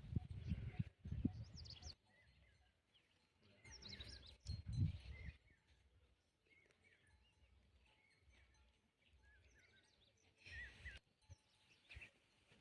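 Birds chirping faintly, with a few bursts of low rumbling.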